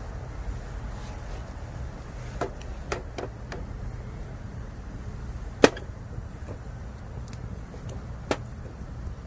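Bamboo firewood burning in an open campfire, giving sharp scattered pops and crackles over a steady low rumble; the loudest pop comes a little past halfway.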